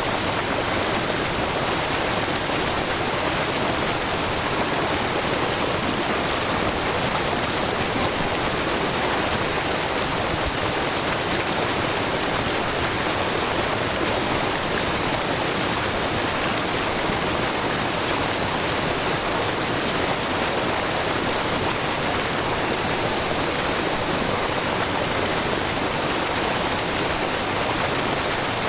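Shiraito Falls, a low, wide curtain waterfall, making a steady rushing and splashing as many thin streams of spring water pour down a rock face. The sound holds even throughout.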